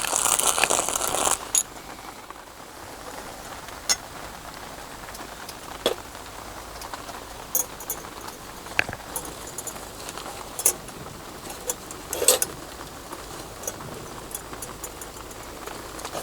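Rain pattering and dripping, with scattered sharp drops landing close by. A louder, dense hiss in the first second and a half stops sharply.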